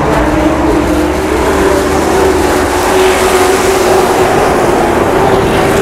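Race truck engine running hard at high revs, a loud steady drone that rises slightly in pitch in the first couple of seconds and then holds.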